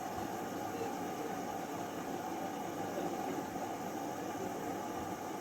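LG F12A8ND front-loading washing machine running with a steady, even hum and whoosh partway through its cycle.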